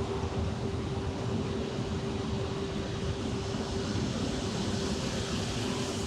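Steady city traffic rumble with a constant hum running through it.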